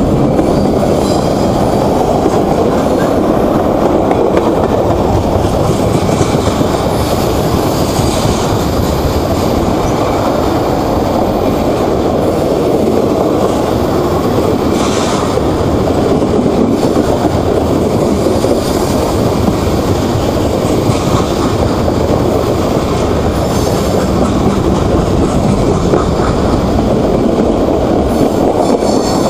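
Freight cars of a long CSX mixed freight train (tank cars, covered hoppers, gondolas) rolling past at close range: a steady, loud noise of steel wheels running on the rails.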